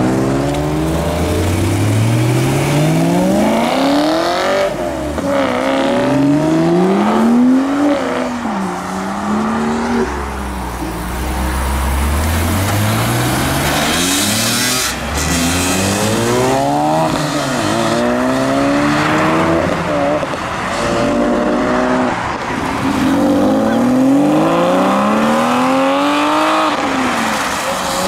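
A series of cars accelerating hard past one after another, each engine's pitch climbing and then dropping back at the gear changes. About halfway through, an E46 BMW M3's straight-six revs past.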